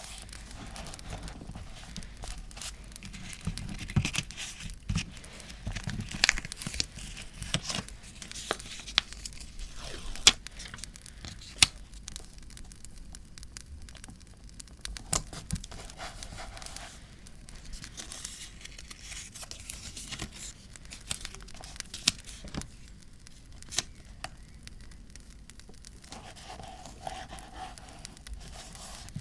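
Paper being torn, crinkled and handled while decorating a diary, with many scattered sharp clicks and crackles. A campfire crackle plays underneath.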